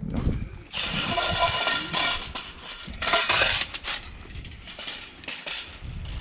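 Scrap items being handled and shifted in a pile: two clattering, scraping bursts with a faint metallic ring, then a few lighter knocks.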